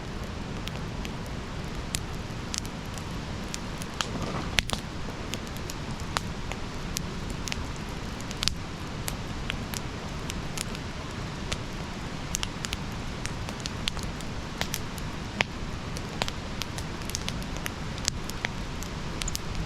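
Wood campfire burning: a steady low rush of flames with frequent sharp crackles and pops at irregular moments, a few of them louder, notably one a little over four seconds in and another about eight and a half seconds in.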